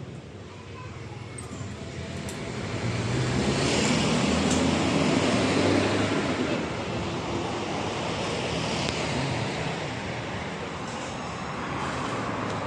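A motor vehicle passing by: an engine hum and road noise that swell over a few seconds and then fade.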